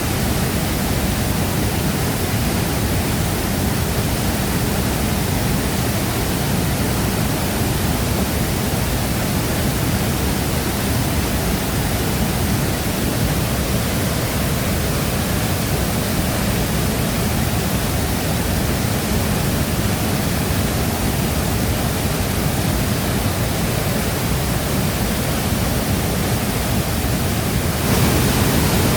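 Shifen Waterfall's water pouring into its plunge pool: a steady, dense rush of falling water, heaviest in the low range. It gets a little louder and brighter about a second before the end.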